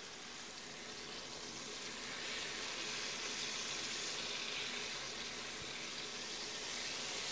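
Chicken breasts frying in olive oil in a stainless steel sauté pan: a steady sizzle that grows a little louder about two seconds in.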